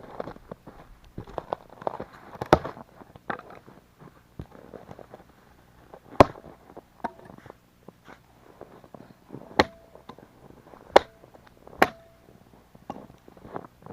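Firewood being prepared for a campfire: irregular sharp cracks and knocks, a few of them loud, several followed by a brief ringing tone.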